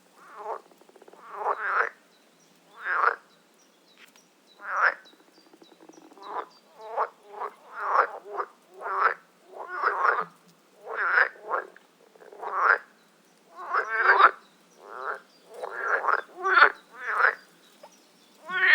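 Frog croaking over and over: short, rasping, pulsed calls about one a second, coming closer together in the second half.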